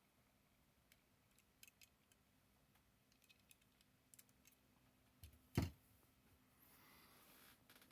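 Faint scattered clicks and taps of a small die-cast model car being handled, with one louder knock about five and a half seconds in and a brief soft rustle near the end.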